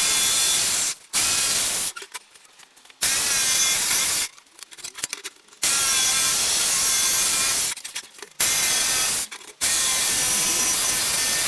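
Power saw cutting through the table-top board along a marked line to open the hole for a router insert plate. It runs in six bursts of one to two seconds, with short quiet gaps between them and a steady motor whine inside each burst.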